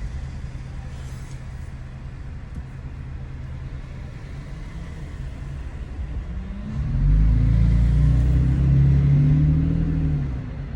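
Pickup's V6 engine through an MBRP 3-inch cat-back exhaust, running low and steady, then about seven seconds in getting much louder as the truck accelerates; the pitch climbs and then eases off near the end.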